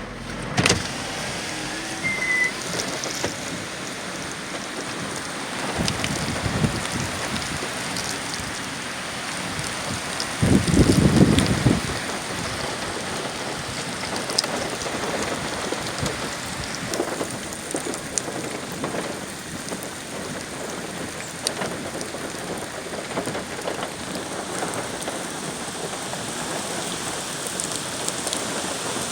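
Steady heavy rain from Hurricane Ian, with many sharp drop ticks. About ten seconds in, a louder low rumble lasts for a second and a half.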